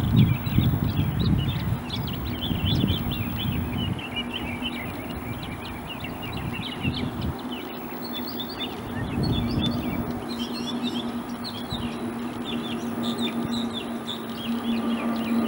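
Small birds chirping many times over in quick short notes. A low rumble fills the first couple of seconds, and a steady low hum grows louder near the end.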